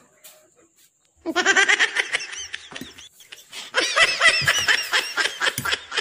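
A person laughing hard in quick, high-pitched pulses, starting about a second in, breaking off briefly, then laughing again in a second burst.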